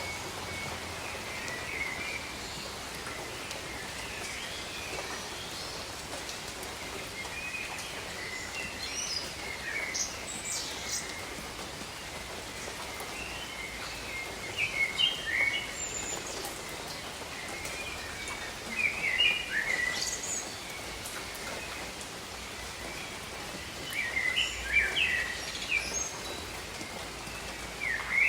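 Steady tropical rain falling, with birds chirping in short clusters of quick calls every few seconds. The bird calls are the loudest moments over the even hiss of the rain.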